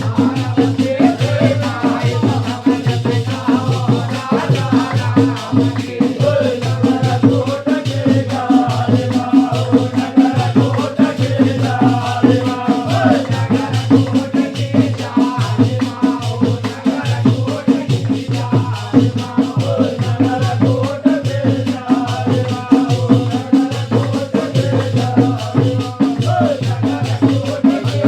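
Holi faag folk music: a steady, driving drum beat with jingling percussion, under a wavering sung melody.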